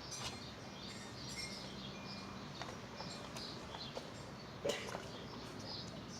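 Small birds chirping in short, scattered calls in the background, with one brief knock about three-quarters of the way through.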